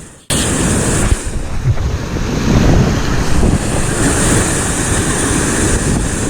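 Waves breaking and surging over shoreline rocks, with wind buffeting the microphone; the sound cuts in suddenly just after the start and then runs on as a loud, continuous rumbling wash.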